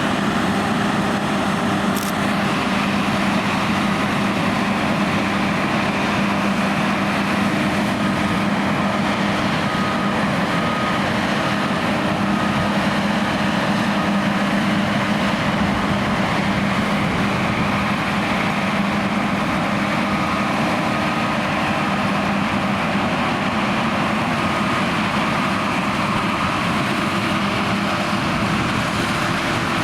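John Deere X9 combine harvester running steadily while harvesting: a constant low engine hum under a broad rush of machinery noise, with a short click about two seconds in.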